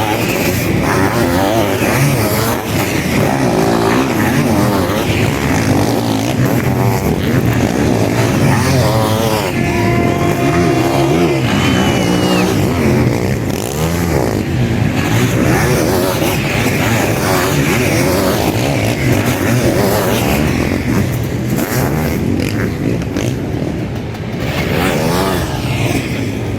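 Sidecar motocross outfits' engines racing, several at once, revving up and down continuously as they accelerate and brake around the track.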